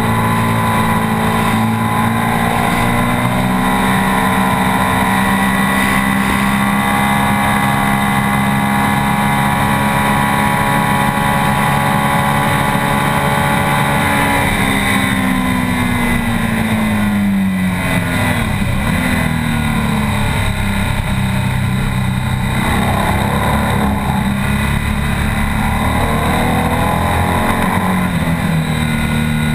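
BMW R 1200 S boxer-twin engine heard from on board, held at high revs at full throttle down a straight. About halfway through the note falls away as the bike slows for a corner, with a couple of short blips on the downshifts, and it picks up again near the end.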